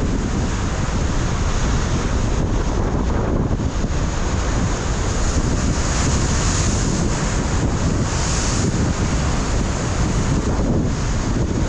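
Ocean surf breaking on a rocky shoreline, with strong wind buffeting the microphone as a steady low rumble. The hiss of the surf swells briefly about six and eight seconds in.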